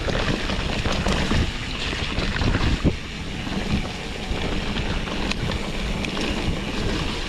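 Wind buffeting an action camera's microphone over the rumble of a mountain bike rolling along a rough trail, with scattered rattles and knocks, the sharpest about three seconds in.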